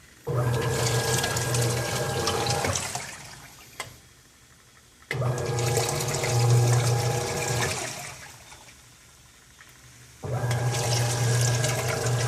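Consul 6 kg Jasmim washing machine agitating: the motor starts suddenly with a hum, churns the water for about three seconds, then coasts down into a short pause, three times over.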